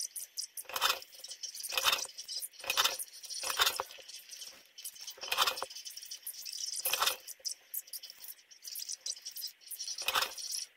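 Small hard objects clinking and rattling as they are handled, about seven sharp clinks at irregular intervals of roughly a second, over a steady hiss.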